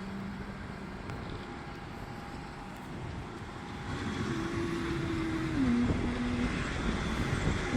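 Motor vehicle noise: a steady low engine hum that holds a few pitches and grows louder about four seconds in.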